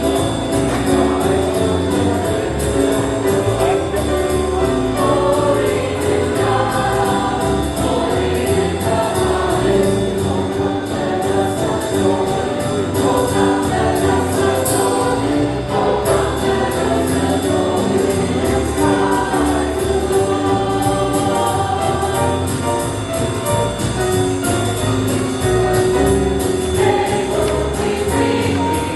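Church choir singing a jazz-style Christmas song with instrumental accompaniment.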